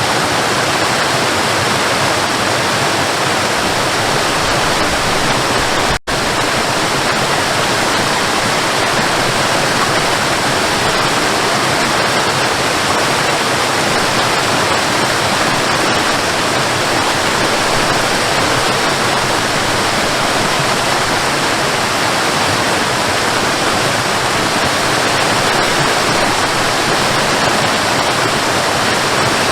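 Waterfall: a steady, loud rush of falling water. The sound cuts out for an instant about six seconds in.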